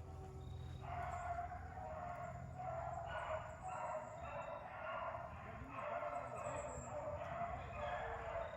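A pack of rabbit-hunting dogs baying in overlapping cries as they run a rabbit's trail. The pack starts in about a second in and keeps going.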